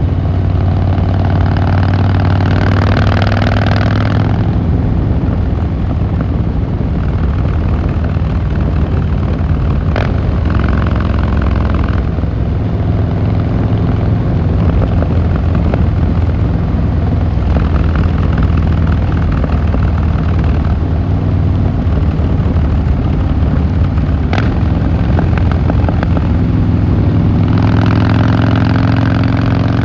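Harley-Davidson Fat Boy Lo V-twin engine and exhaust running on the road. The engine note rises under throttle about a second in and again near the end. Two sharp clicks, one about a third of the way in and one later.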